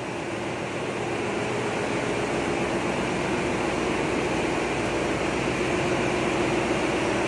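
A ship's 1,000-kilowatt diesel generator running at steady speed: a loud, continuous machinery drone that grows a little louder over the first couple of seconds, then holds steady.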